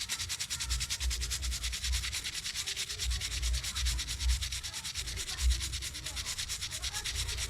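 Brush scrubbing a wet phone circuit board with cleaning solution, in rapid, even back-and-forth strokes.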